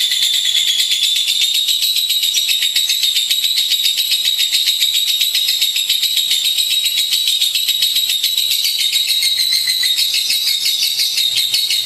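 Lovebird singing one long, unbroken chattering trill of very rapid, high, shrill notes.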